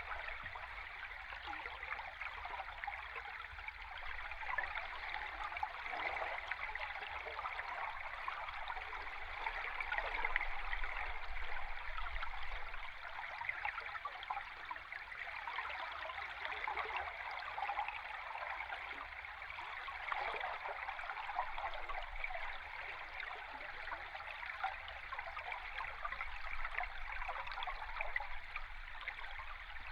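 Stream water heard underwater: a steady, even rush of flowing water with fine bubbling texture and a faint low rumble beneath.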